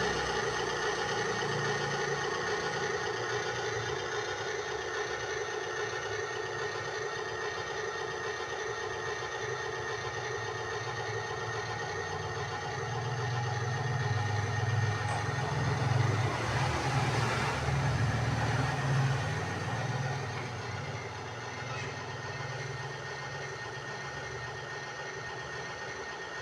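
Radio-controlled construction machine running with a steady engine-like drone. The low rumble grows louder about halfway through and eases off again a few seconds later.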